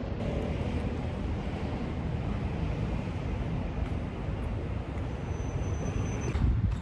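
Steady low rumble of a moving vehicle, with a faint thin high tone shortly before the end.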